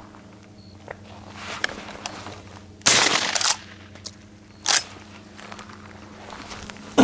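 Footsteps through dry desert brush, with a loud rustling crunch lasting under a second about three seconds in and a shorter one near five seconds. A sharp bang comes at the very end.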